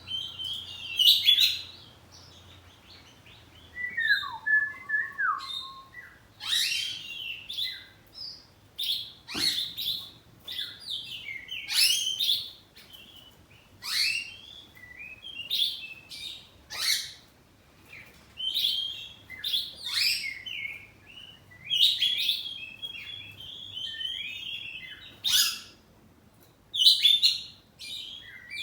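Oriental magpie-robin (kacer poci) singing in full voice: short, loud phrases of rapid chirps, trills and sweeping whistles, one after another with brief pauses, including a slower, lower whistled phrase about four seconds in.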